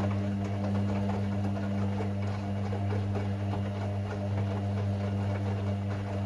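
Hoover Six Sportswear 1300 washing machine running partway through its Speed Wash 50 cycle, giving a steady low hum that does not change over the few seconds.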